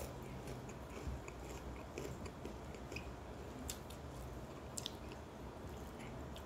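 A person chewing a mouthful of rice and fried food with soft mouth sounds, with a few faint clicks, over a low steady hum.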